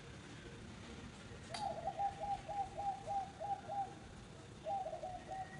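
A bird calling a rapid series of short, identical mid-pitched notes, about three to four a second. It starts with a sharp click about a second and a half in, pauses briefly near four seconds, then starts a second run.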